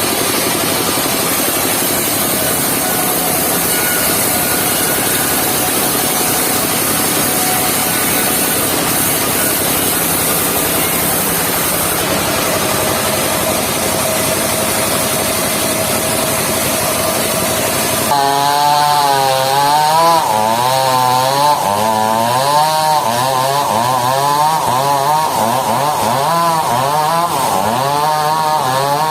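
Mobile circular sawmill cutting a log, a loud, dense noise of saw through wood. About two-thirds of the way in the sound changes suddenly to a whine whose pitch rises and falls again and again.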